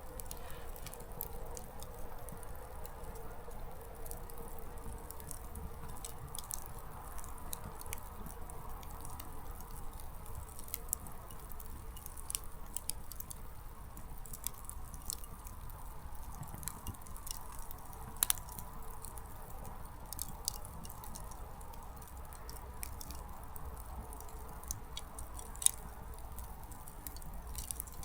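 Small wood campfire burning, its firewood crackling with scattered sharp clicks and a few louder pops.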